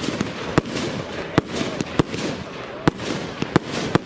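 Evolution Fireworks 'Diamonds in Gold' consumer fireworks battery firing: about six sharp bangs, unevenly spaced half a second to a second apart, over continuous noise from the bursting effects.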